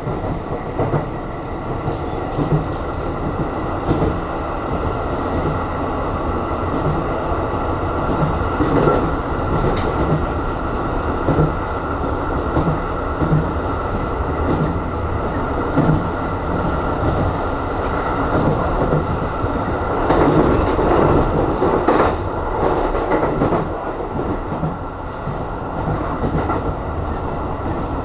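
Aonami Line electric commuter train running at speed, heard from inside the car: a steady rumble of wheels on rail with an even, repeating clickety-clack, louder for a couple of seconds past the middle.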